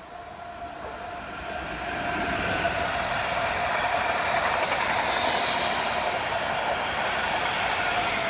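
PKP Intercity electric multiple unit passing at speed: a rushing noise of wheels on rail that grows loud about two seconds in and holds, with a steady whine running under it.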